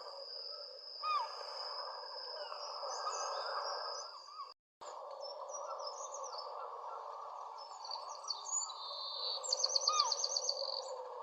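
Songbirds chirping and calling over a steady hiss. There are many short, sliding notes, and a fast high trill of about ten notes a second near the end. The sound cuts out for a moment a little under halfway through.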